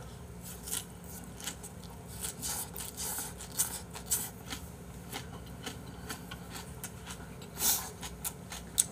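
A person chewing a mouthful of food, with many small wet mouth clicks and smacks scattered through and one louder one near the end.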